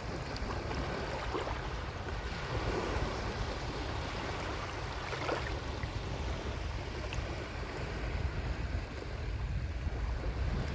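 Sea waves washing onto a shore: a continuous wash with a low rumble that swells and eases.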